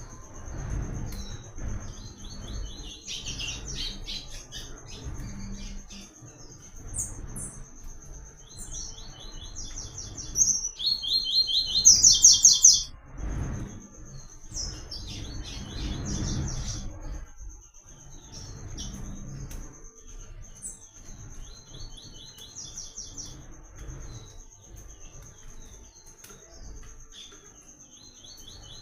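Papa-capim seedeater singing: phrases of rapid, repeated high notes, loudest about ten to thirteen seconds in, over a steady high-pitched buzz.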